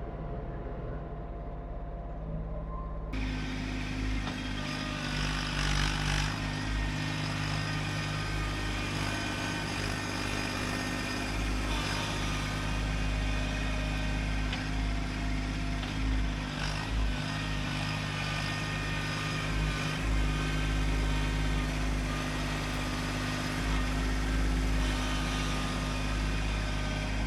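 Kubota LX2610 compact tractor's three-cylinder diesel engine running steadily.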